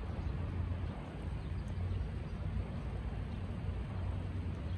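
Steady hiss of light rain falling on trees and grass, over a steady low rumble.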